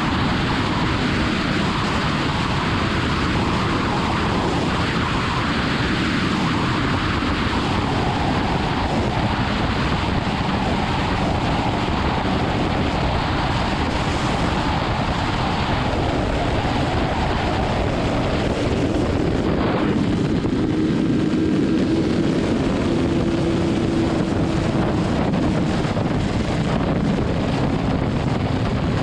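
Motorcycle at highway speed: steady wind rush over the microphone, with the inline-four engine of a BMW S1000RR running underneath, its note drifting slowly up and down.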